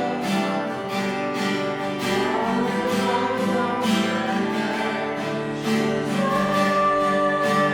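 Acoustic guitar strummed steadily in a worship song, with singing over it.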